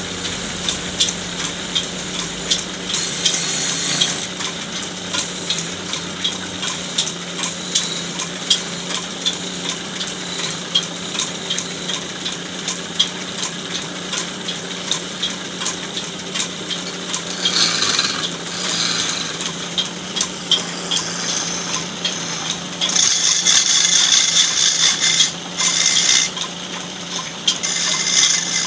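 Motor-driven woodworking machine running with a steady hum while working wood, with louder stretches of cutting noise about three seconds in, around eighteen seconds in, and for a few seconds near the end.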